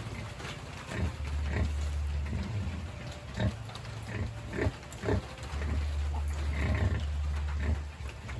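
Pigs grunting: low, rapid grunting in two long stretches, with short, sharper pig noises scattered among it.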